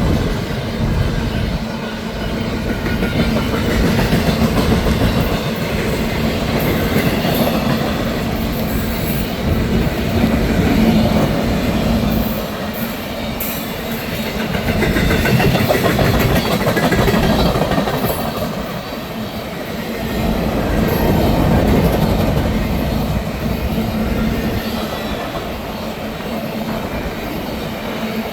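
CSX intermodal freight train rolling past with its piggyback trailer flatcars, the wheels rumbling and clattering over the rail with a steady hum. The loudness swells and fades every five or six seconds as the cars go by.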